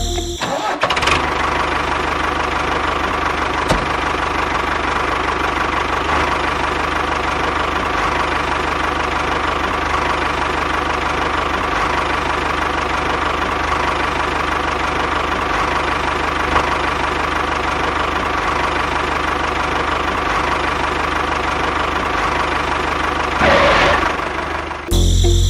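Small motor running steadily with a fast, even churn. It starts about a second in, runs a little louder for a moment near the end, then cuts off.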